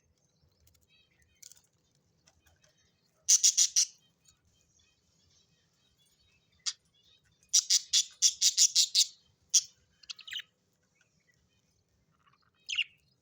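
A bird giving short, sharp chirping calls in bursts: a quick group of four, then a rapid run of about eight, with single calls between and near the end.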